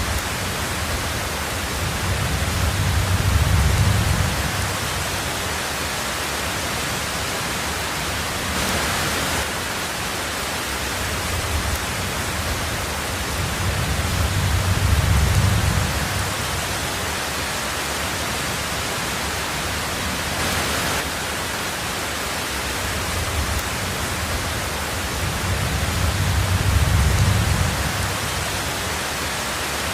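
Heavy rain on a tin roof, a steady dense hiss, with three low rumbles of distant thunder swelling and fading about twelve seconds apart.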